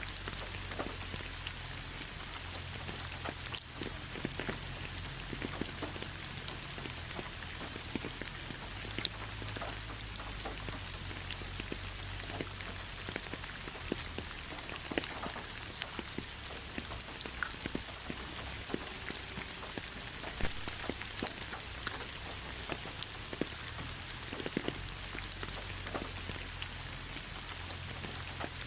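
Rain falling onto fallen leaves: a steady hiss dotted with many separate drop ticks and pats landing on the leaves.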